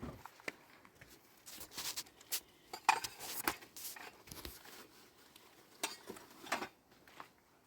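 Dishes and utensils clattering: a run of irregular clinks and knocks, with a few short scrapes.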